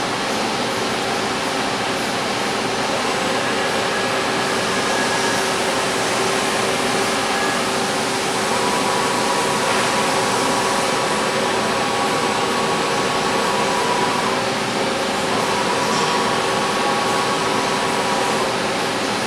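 Sharp STA-4460 big-bore CNC lathe running with its spindle turning: a steady machine whir and hum with a constant tone, joined by a higher tone about eight seconds in that drops out near fourteen seconds and returns briefly a little later.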